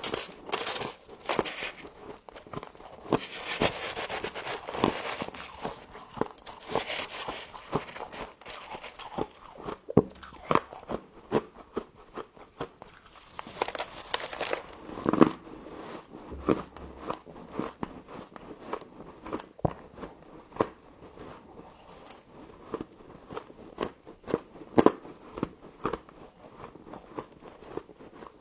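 Close-up biting and chewing of crunchy frost: a long run of sharp crunches and crackles, busiest in the first third.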